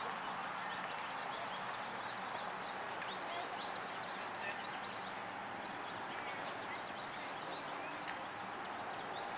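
Many short, high chirps from small birds over a steady background hiss, with a few sharp taps.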